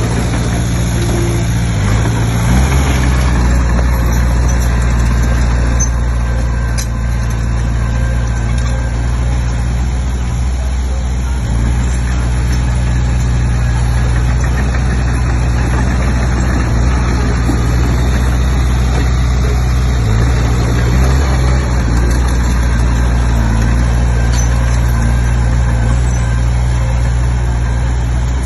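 Komatsu D20P bulldozer's diesel engine running steadily, its pitch shifting briefly about two seconds in and again about twenty seconds in.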